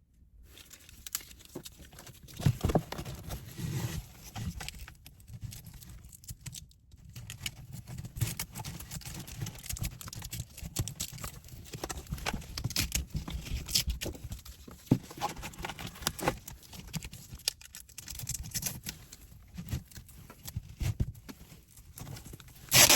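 Irregular knocks, taps and rustling of objects being handled and fitted, with a low rumble throughout and a loud sharp knock near the end.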